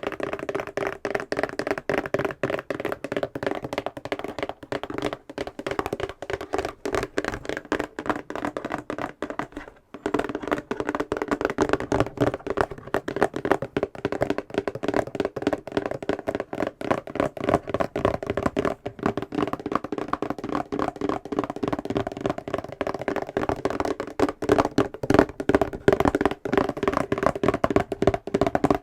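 Fingernails tapping rapidly on a box, a dense stream of many small hollow taps a second, with a brief pause about ten seconds in.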